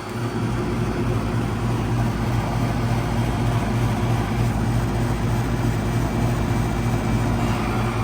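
2003 Goodman CPLE24 two-ton heat pump running in cool mode: its Bristol reciprocating compressor humming steadily under the rush of the condenser fan.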